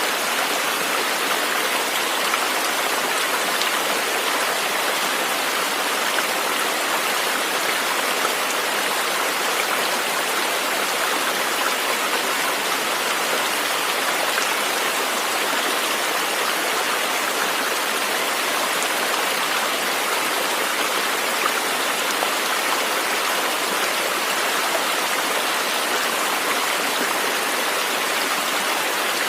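A river flowing over rocks: a steady, even rush of water that never changes.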